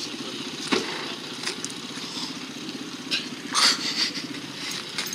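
Motorcycle engine idling steadily, with two short knocks, the louder one about three and a half seconds in.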